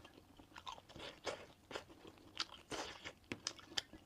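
Close-up mouth sounds of chewing pan-fried glutinous rice cake (ciba) coated in brown sugar: soft crunching and wet clicks at irregular intervals as the crisp, sugary crust is bitten and chewed.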